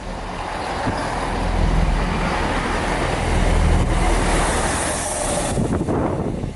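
A train passing close by at speed: a loud rush of wheel and air noise over a deep rumble, building over the first couple of seconds and dropping away sharply about five and a half seconds in.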